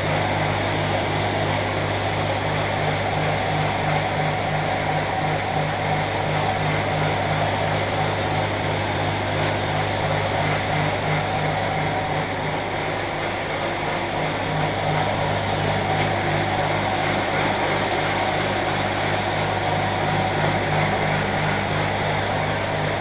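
Steady machine noise: a low hum with a regular throb about two or three times a second, over a hiss of air.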